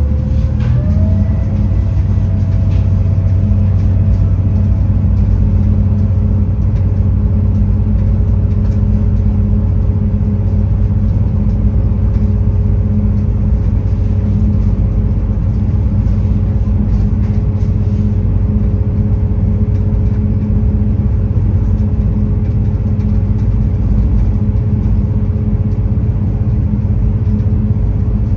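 V/Line VLocity diesel railcar running at speed, heard from inside the carriage: a steady loud rumble with a droning engine hum. The engine note rises about a second in and then holds steady.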